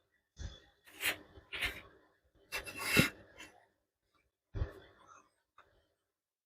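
A string of short scrapes and knocks from metal parts being handled and worked on by hand, about six in all, the loudest about three seconds in.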